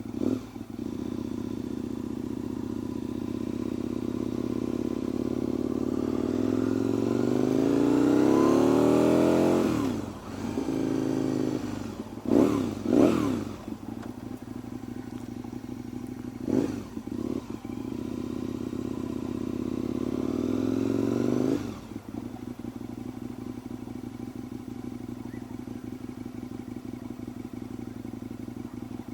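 Motorcycle engine idling, then its revs climb slowly over a few seconds and drop away suddenly, followed by a few quick throttle blips, a second slow climb that cuts off suddenly, and a return to a steady idle.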